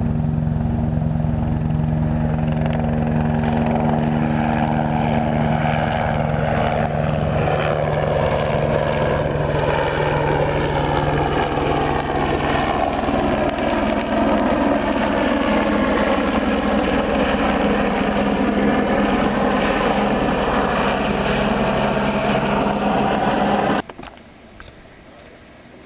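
Small boat outboard motor running steadily, its pitch drifting slowly up and down. It cuts out suddenly near the end, leaving a much quieter background.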